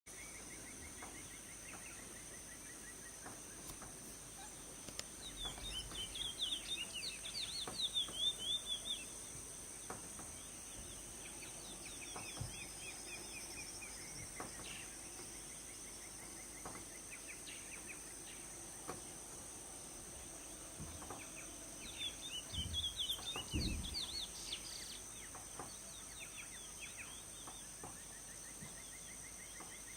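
Chestnut-bellied seed finch (curió) singing twice, each phrase a few seconds of rapid, varied whistled notes, over a steady high insect drone.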